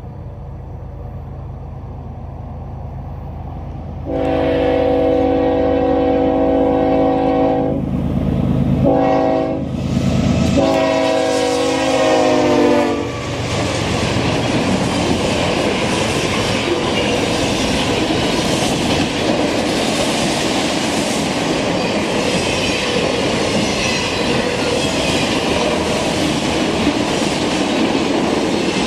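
Norfolk Southern diesel locomotive approaching with its engine rumbling, then sounding its horn: a long blast, a short one, and a final long one that drops in pitch as it passes. After that comes the steady rolling rush and clatter of a long string of autorack freight cars going by close at hand.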